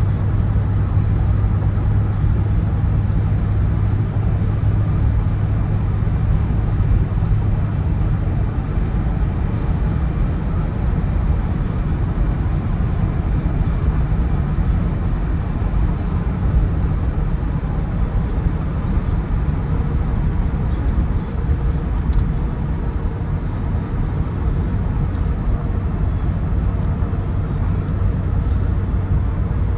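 Steady drone of a vehicle cruising at about 60 mph with a trailer in tow, engine and road noise with a strong low hum, heard from inside the cab.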